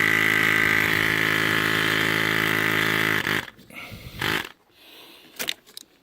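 Loud, steady electrical buzz from a vibrating unit in a Ford 6.0 Powerstroke diesel's engine compartment. It cuts off a little past three seconds in as the unit is disconnected, followed by a few clicks and handling noises.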